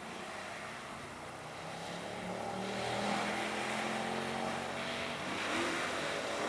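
Mercedes-AMG V8 car engine running under throttle on track, a steady engine note that grows louder about two and a half seconds in and then holds, with a rising hiss of noise near the end.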